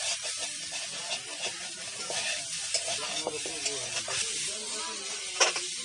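Pieces of cuchia eel sizzling in oil in an iron kadai while a spatula stirs them, scraping and tapping against the pan, with one sharper knock near the end.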